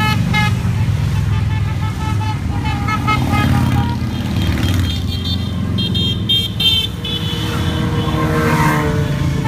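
Steady rumble of a long procession of motorcycle engines passing, with horns beeping in short repeated toots over it several times.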